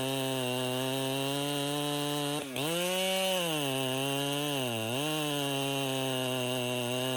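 Chainsaw running at high revs with a steady pitch. The pitch breaks sharply about two and a half seconds in and dips again near five seconds, each time recovering to the same note.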